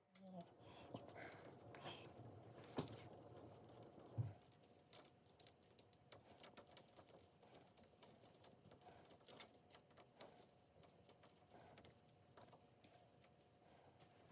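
Faint clicks and light metallic taps of small steel parts being handled and fitted while a workpiece is set up between centres on a lathe, with a louder knock about four seconds in.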